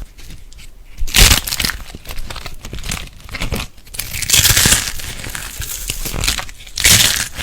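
Crackling, crunching handling noise in several bursts as a crunchy material is pressed, cut or torn, loudest a little after a second in and again at about four to five seconds.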